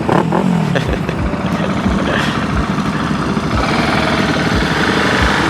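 Motorcycle engine running while riding, its pitch dropping as the revs fall about half a second in, then held steady under a rush of riding noise.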